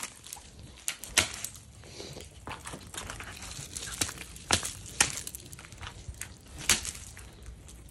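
Footsteps crunching in snow: irregular crisp crunches, a few of them louder and sharper.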